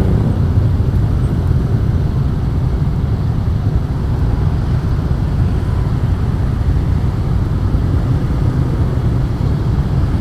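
Honda Astrea Star motorcycle's small four-stroke single-cylinder engine running steadily while riding, with a dense low rumble of engine and rushing air on the microphone.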